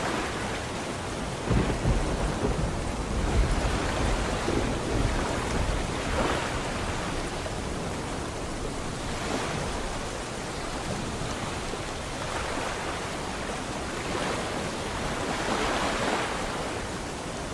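Steady rain, with low rumbling thunder for a few seconds about a second and a half in, over sea waves washing in and out in slow swells.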